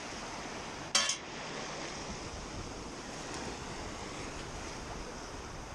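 Ocean surf and wind making a steady wash, with one brief sharp clink-like sound about a second in.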